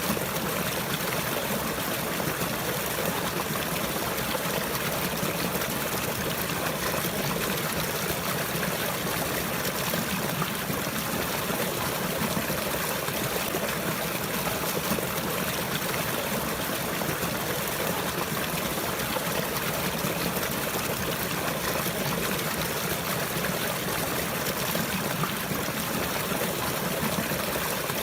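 Running water flowing and trickling steadily, like a small stream, with no breaks or changes.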